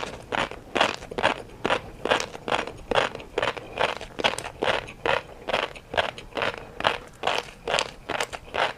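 A person chewing crunchy food close to the microphone: regular crisp crunches, about two to three a second.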